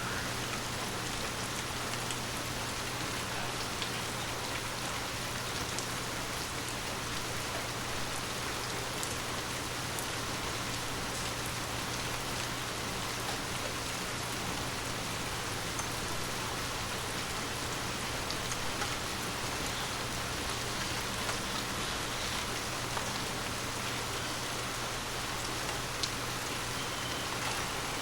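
Steady rain falling on forest leaves, an even patter with scattered sharper drops ticking throughout.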